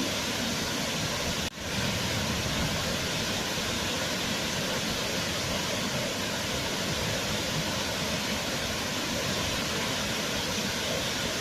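Waterfall: falling water rushing in a steady, even wash of noise, with a momentary dip in level about a second and a half in.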